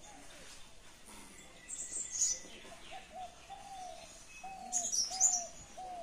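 Birds calling: a short arched call repeated again and again at the same pitch, with two louder bursts of high, sharp chirping, one about two seconds in and one about five seconds in.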